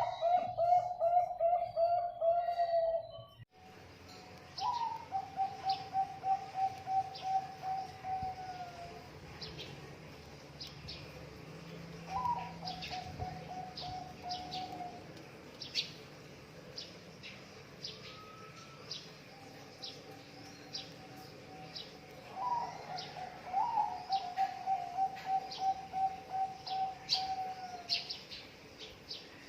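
Zebra doves (perkutut) cooing: each song opens on a higher note, then runs into a fast staccato string of low coos that tails off at the end. It repeats several times, with short high chirps scattered throughout. A loud song is cut off about three and a half seconds in, and the later songs are quieter.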